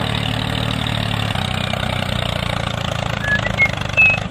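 Tractor engine running steadily with a rapid even pulse, and a few short high chirps near the end.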